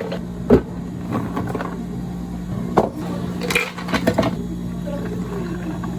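Café background sound: a steady low machine hum with scattered short clinks and knocks of cups and dishes, the sharpest clatter about three and a half seconds in.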